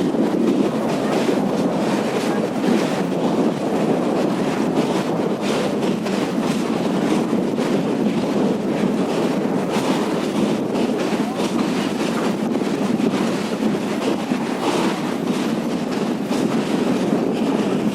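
Train running slowly over the Pamban rail bridge: a steady, loud rumble of wheels on the rails with many irregular clicks and clanks.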